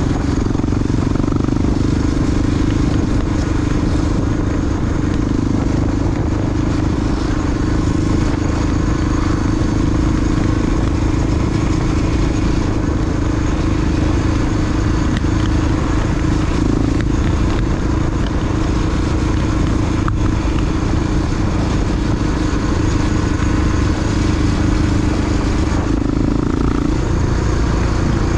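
Honda XR big-bore single-cylinder four-stroke dirt bike engine running steadily under way, with a constant wash of wind and road noise. The engine pitch holds nearly even, bending briefly about halfway through and again near the end.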